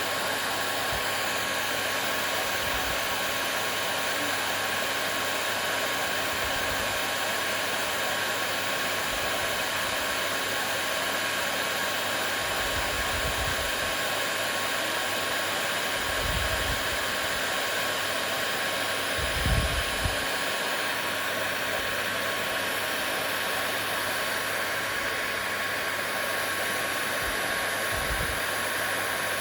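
Hair dryer running steadily: an even airy rush with a thin, constant whine. A few brief low thumps come through, the loudest about two-thirds of the way in.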